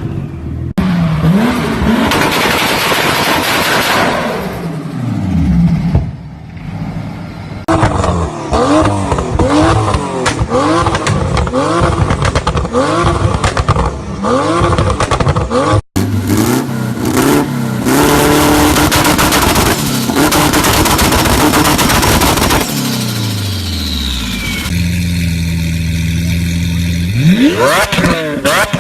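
Performance car engines revving hard through loud exhausts, in a string of short clips: the revs sweep up and down again and again, with sharp pops and crackles of exhaust backfire between blips. Near the end an engine holds a steady rev, then climbs sharply.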